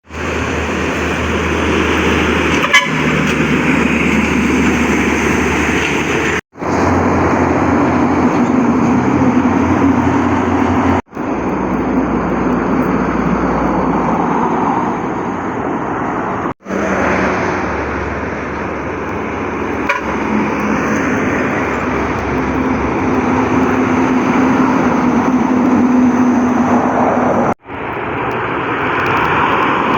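Heavy trucks passing on a highway, a steady rush of engine and tyre noise. It breaks off briefly four times, where short clips are joined.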